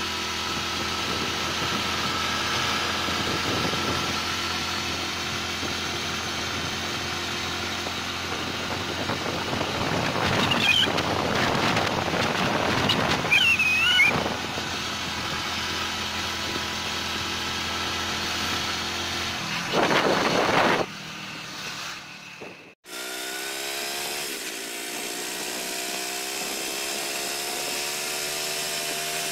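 Hero Splendor Plus i3s motorcycle's 100cc single-cylinder four-stroke engine running steadily while the bike is ridden on the road at about 40–50 km/h, with wind noise on the microphone. The sound drops out briefly about three-quarters of the way through, then the engine note carries on.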